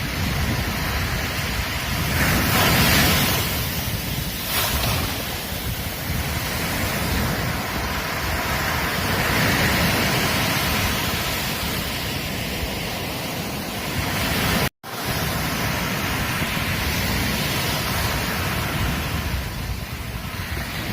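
Ocean surf on a beach: waves breaking and washing in a steady rush that swells and ebbs, loudest early on and again near the middle. The sound cuts out for an instant about two-thirds of the way through.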